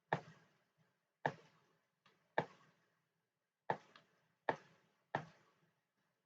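Sharp, irregular clicks at a computer desk, about eight of them, each with a short fading tail and two of them softer.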